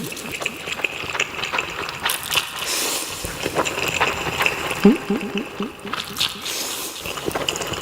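Close-miked eating of instant curry ramen: noodles slurped and chewed, with wet smacking and a string of small clicks, and a short falling squeak about five seconds in.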